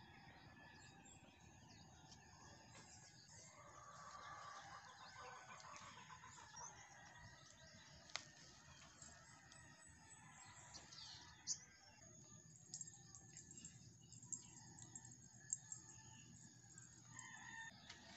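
Near silence: faint outdoor ambience with distant birds chirping, and a few short clicks in the second half.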